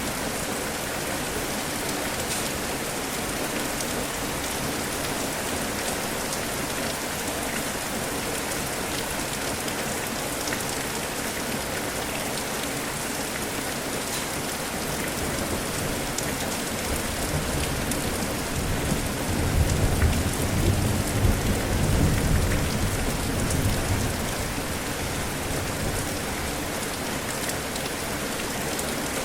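Steady rain falling, with a low roll of thunder that swells about two-thirds of the way through and fades away a few seconds later.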